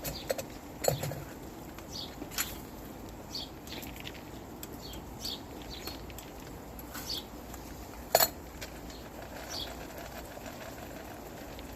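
Small birds giving short, high chirps every second or so, with a few sharp clicks in between, the loudest about eight seconds in.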